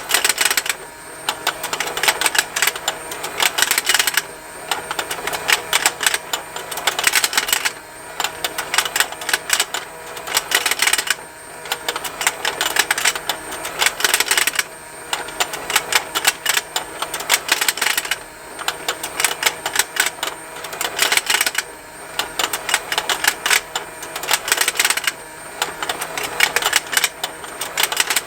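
Plastic fishing-game toy running: its motor and plastic gears tick continuously over a faint steady hum while the fish snap. The clicking swells into a louder burst about every three and a half seconds as the pond turns.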